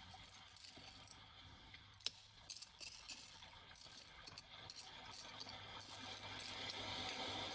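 Faint clicks and rattles of small objects being handled and sorted, several sharp clicks about two to three seconds in, over a faint steady wash.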